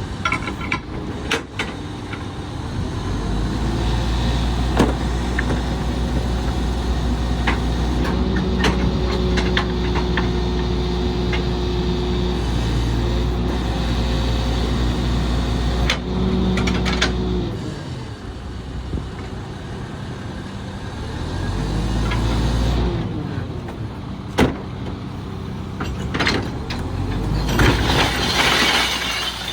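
Volvo Xpeditor rear-loader trash truck's diesel engine revving up to power the Heil PowerTrak packer's hydraulics, holding high speed, dropping back and revving up again. Knocks and clanks sound throughout, with a rattling burst near the end.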